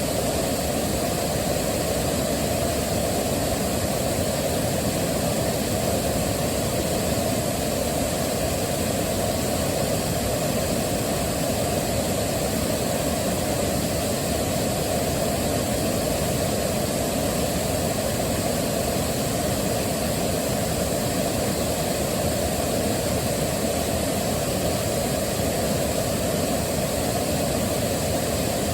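Waterfall: a steady, even rush of falling water, heavier in the low end, with no change in loudness.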